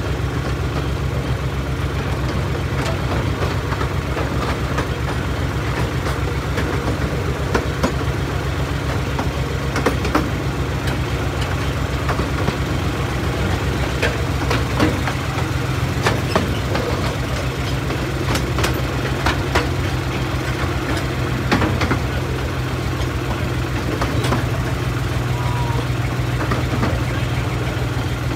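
A 15-inch-gauge miniature railway train running along the line: a steady low rumble of the running train, with occasional sharp clicks and knocks from the running gear.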